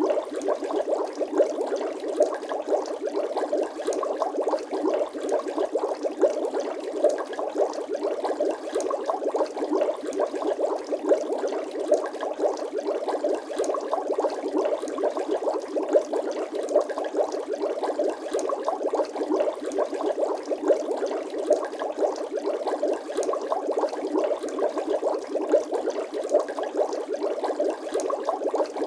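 Bubble sound effect: water bubbling steadily, a dense stream of small pops and gurgles with no bass.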